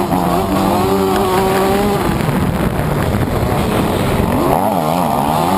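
TM MX 125 two-stroke motocross engine running hard at race pace. Its pitch holds fairly steady for about two seconds, then swings up and down rapidly near the end as the throttle is worked.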